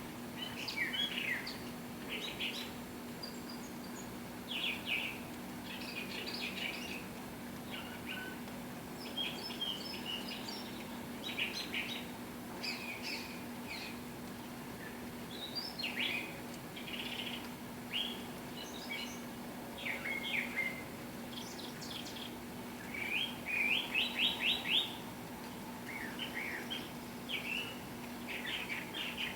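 Several small birds chirping and singing in short phrases, with a quick run of about six loud notes near the end. A faint steady low hum runs underneath.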